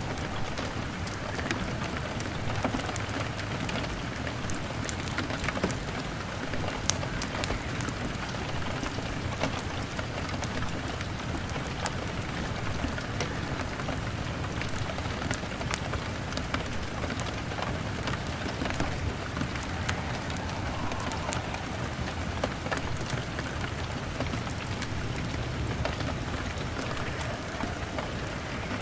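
Steady rain pattering on a window, mixed with a crackling log fire that gives scattered sharp snaps.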